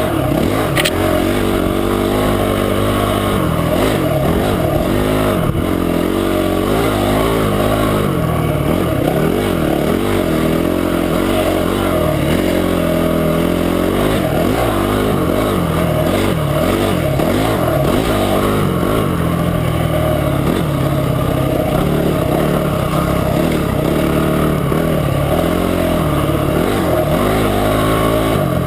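Motorcycle engine running while riding, its pitch rising and falling over and over with the throttle.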